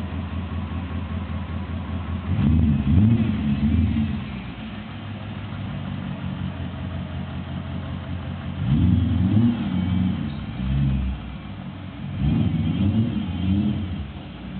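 BMW E34 540i's V8 running through a custom exhaust, idling steadily and revved three times, each rev rising and falling back to idle.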